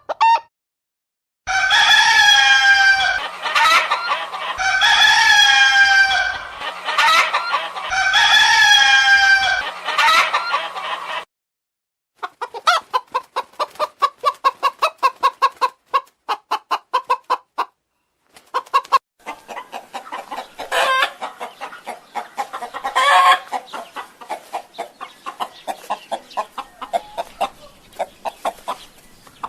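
Chickens calling. Three loud, identical long calls come in the first ten seconds, then after a short pause a run of rapid, repeated clucking.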